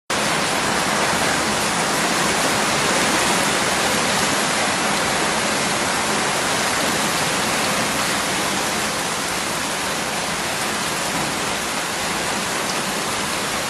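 Heavy hailstorm: hailstones and rain falling hard, heard as a dense, steady hiss with no separate impacts standing out.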